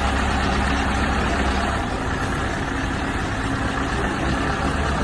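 A motor vehicle's engine running steadily with a low hum, mixed with road and traffic noise.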